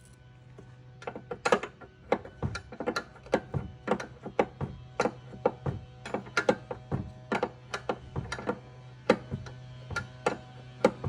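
A hand ratchet wrench clicking in short, uneven strokes, about two to three clicks a second, while a fastener on the rear suspension is turned.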